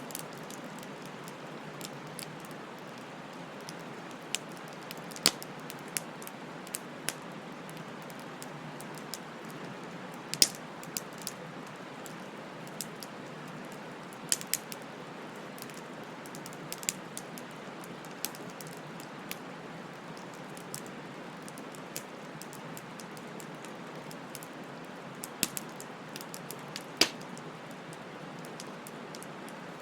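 Wood fire burning: a steady soft hiss of flames with irregular sharp crackles and pops from the burning wood, a few of them much louder than the rest.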